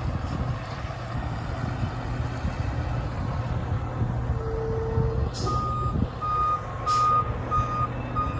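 A fire engine runs steadily while backing in. About halfway through, its reversing alarm starts beeping, roughly twice a second. Two short hisses of air are heard as the beeping begins.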